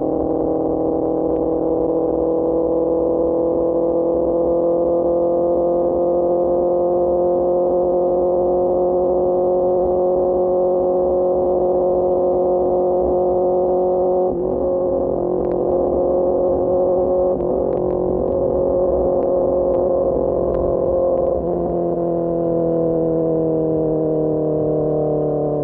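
QJMotor SRK600 inline-four running through an Austin Racing GP1R exhaust at a steady cruise. The pitch climbs slowly for the first dozen seconds, holds, then drops about three-quarters of the way through as the bike eases off.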